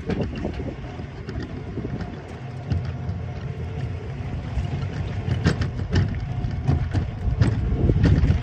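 Wind buffeting the microphone during a ride in a small electric vehicle, with a low rumble and frequent rattles and knocks that grow busier in the second half.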